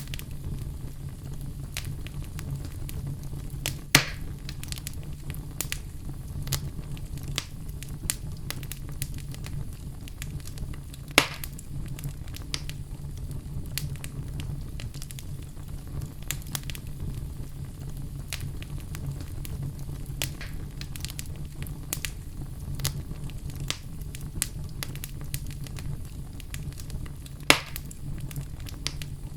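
Oak logs burning in a fireplace: a steady low rumble of flames under constant small crackles, with three loud pops, about four seconds in, about eleven seconds in, and near the end.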